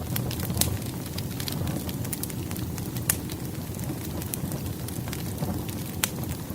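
Wood fire burning steadily: a low rumble of flames with irregular sharp crackles and pops from the burning logs.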